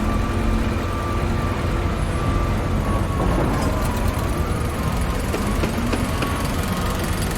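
Construction-site machinery: heavy engines running with a steady low rumble, faint tones drifting above it and a few faint clicks about two-thirds of the way through.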